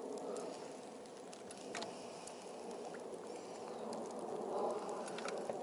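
Falling wet snow pattering on rain gear and the board: a steady hiss with scattered soft ticks.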